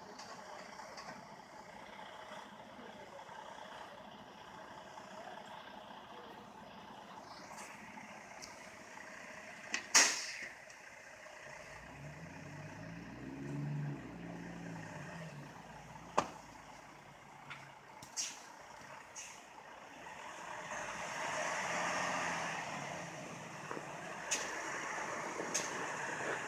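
Truck stuck in snow, its engine revving up and down and its drive tires spinning, under a steady noise of vehicle and outdoors. Several sharp knocks come through, the loudest about ten seconds in.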